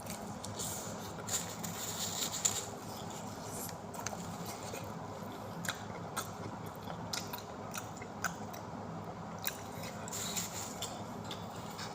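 A person biting and chewing pizza close to the microphone, with many small sharp mouth clicks and bursts of chewing noise.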